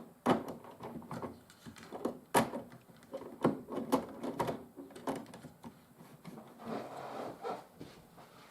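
Scattered light clicks and knocks of a model locomotive and its track being handled by hand while the derailed loco is set back on the rails.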